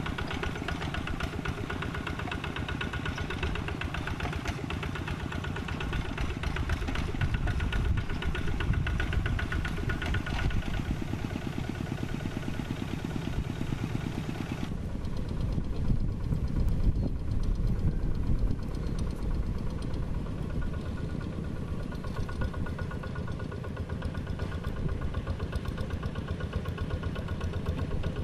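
Diesel engine of a Quick G3000 Zeva two-wheel walking tractor running steadily under work, with a rapid even chugging of firing strokes. A high hiss over it drops away abruptly about halfway through.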